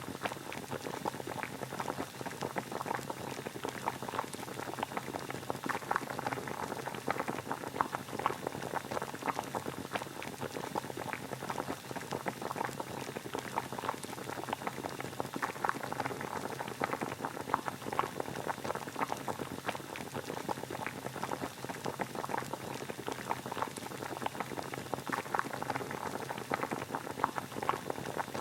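Water boiling: a steady, dense bubbling made of many tiny pops, kept even throughout.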